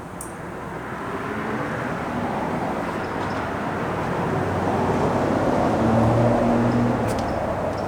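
A passing motor vehicle's engine and road noise, growing louder to a peak about six seconds in, then fading.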